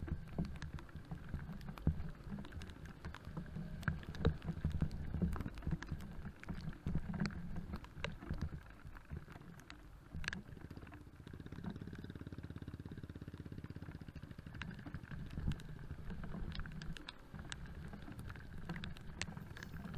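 Single-cylinder motorcycle engine running, heard muffled, over a rough, broken road surface, with scattered knocks and clicks among the hum.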